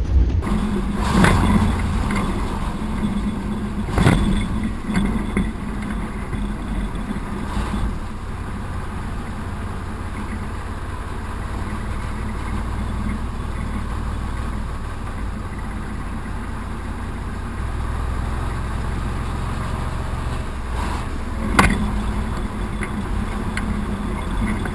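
YaMZ-236 V6 diesel engine of a TU6A narrow-gauge locomotive running steadily under way, heard from the cab, growing a little stronger in its low drone about three-quarters of the way through. Four sharp knocks stand out over it, two close together near the start, one soon after and one near the end.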